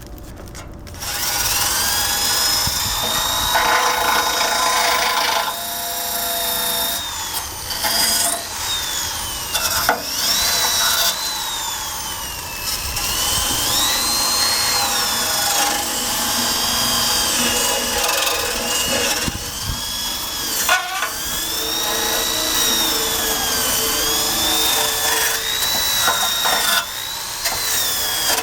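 Power drill running a wire brush against the scooter's metal undercarriage. It starts about a second in, and its motor whine dips and rises in pitch as the brush is pressed on and eased off, over a scraping rasp.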